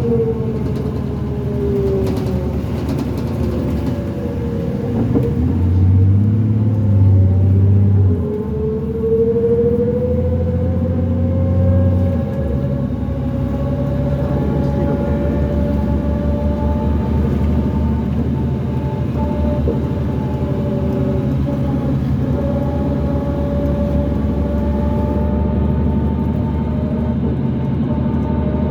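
Diesel transit bus drivetrain heard from inside a 2005 New Flyer D40LF with a Cummins ISL engine and ZF six-speed automatic. A whine, which the uploader calls a weird axle noise, falls in pitch at first, then climbs as the engine pulls hard from about five seconds in. After about twelve seconds the engine eases off and the whine holds a steady pitch while the bus cruises.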